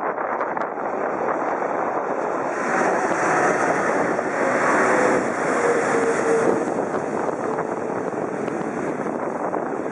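Jet airliner passing close by at Haneda: a rushing engine roar that swells to a peak midway, with a faint whine that sinks slightly in pitch as it goes by, then eases off. Wind buffets the microphone.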